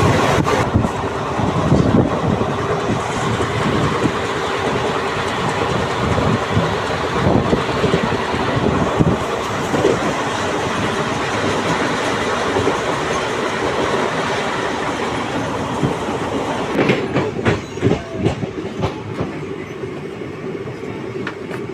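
Passenger train running on the rails: a steady rumble with the wheels clattering over rail joints, and a short run of sharper clacks about three quarters of the way through.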